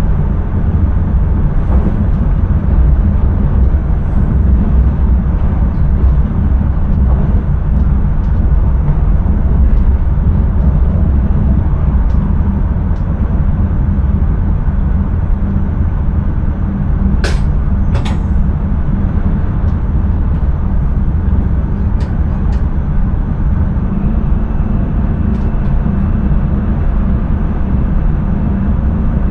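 Steady low rumble of an intercity train running along the line, heard from inside the driver's cab, with two sharp clicks about 17 and 18 seconds in.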